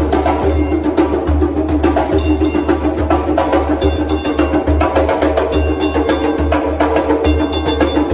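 Street drummers playing a fast, dense percussion rhythm, with sharp stick-like strikes over a pulsing low drum beat, without a break.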